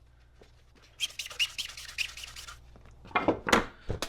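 Scratching and rubbing handling noise: a quick run of scrapes lasting about a second and a half, then a few louder rustling knocks near the end.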